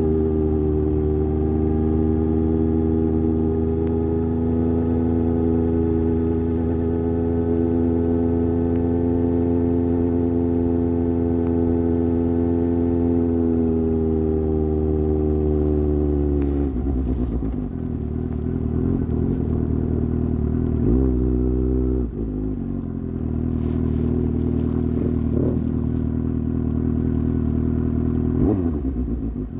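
Suzuki GSX-S750's inline-four engine through an aftermarket sport exhaust, holding a steady engine speed for about sixteen seconds. The revs then drop and the engine runs lower and less evenly, with a few short rev rises near the end.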